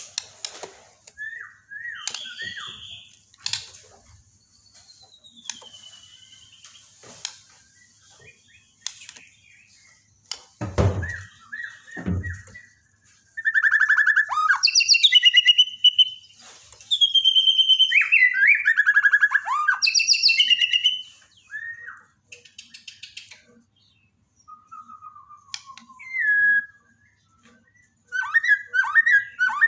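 White-rumped shama (Borneo murai batu) singing in phrases of clear whistles, fast trills and sharp clicks, loudest in a long stretch of song in the middle. Two dull low thumps come shortly before that stretch.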